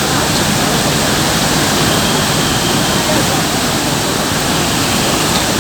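Kapila Theertham waterfall in flood: a loud, steady rush of water pouring down.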